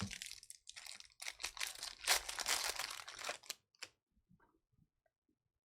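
Foil trading-card pack wrappers crinkling and tearing as packs are ripped open and cards handled, in dense crackles for about three and a half seconds, then a single click.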